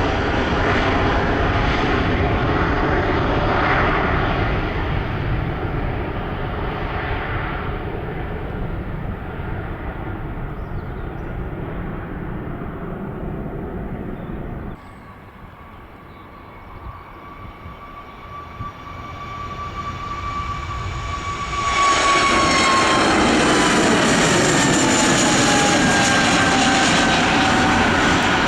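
Jet airliner engines close by, the noise slowly fading over the first half. After an abrupt drop to a quieter stretch, another jet comes in suddenly loud, its engine whine falling in pitch as it passes.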